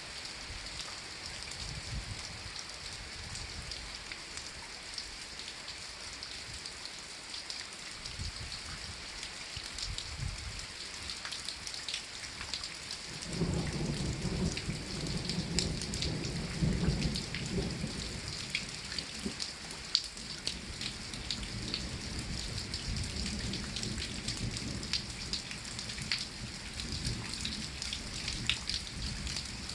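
Steady rain falling, with many separate drops pattering and dripping. About halfway through a low rumble swells up, becomes the loudest sound, and lingers under the rain.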